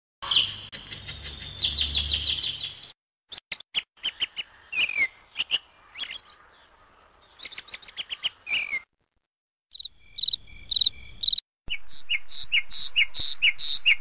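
Small birds chirping and trilling in several short recordings spliced together, with abrupt cuts and brief silences between them, about 3 s and 9 s in. Near the end comes a fast, even series of repeated chirps.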